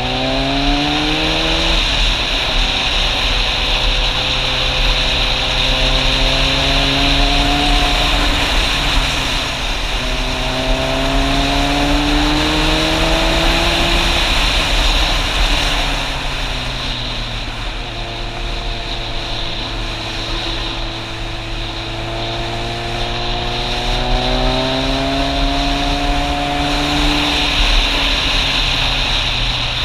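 Motorcycle engine pulling up through the gears: its note rises and then drops back at each shift, several times over. A steady rushing noise runs underneath.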